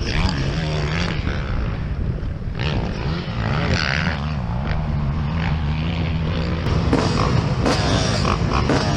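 Motocross dirt bike engine running, its pitch rising and falling as it is revved, with rough noise over it.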